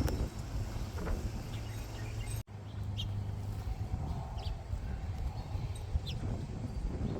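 Outdoor ambience: scattered short bird chirps over a steady low rumble, broken by a sudden brief dropout about two and a half seconds in.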